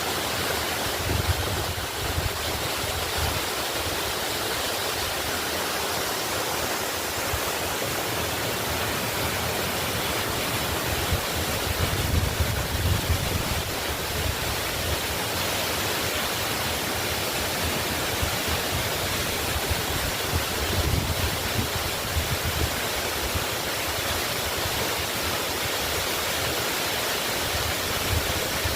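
Waterfall rushing steadily, a constant hiss of falling water with small low swells now and then.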